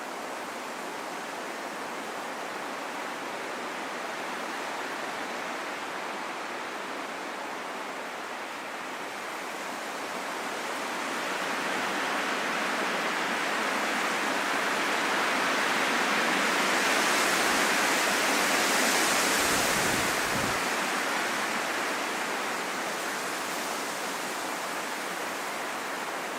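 Wind blowing in a steady rush. It swells over several seconds to its strongest a little past the middle, then dies back down.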